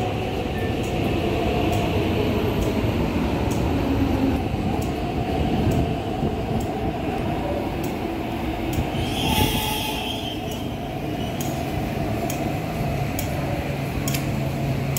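MTR East Rail Line electric train running into the platform and slowing, with a steady rumble of wheels on rail and repeated sharp clicks. A brief high hiss comes about nine seconds in, and a steady low hum starts in the last few seconds.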